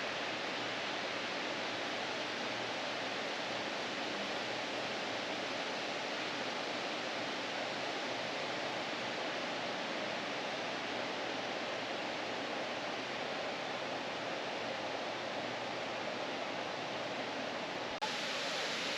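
Steady rush of Rainbow Falls, a large waterfall on the Wailuku River, heard as an even roar of falling water, with an abrupt change in tone near the end.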